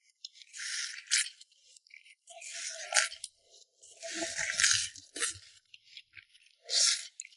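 Close-miked eating sounds: a person chewing and crunching food in several short bursts, each under a second long, with brief pauses between them.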